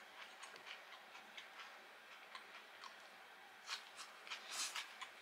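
A person chewing crunchy fried food, with faint irregular mouth and chewing clicks and louder crunching about four seconds in.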